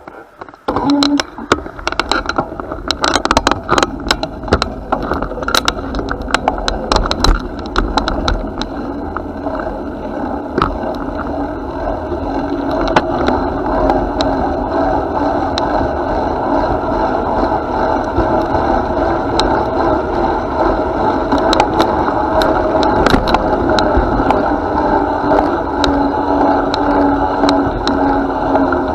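Bicycle riding along a path: tyres rolling, with the bike rattling and clicking over bumps through the first ten seconds or so, then a steadier rolling noise.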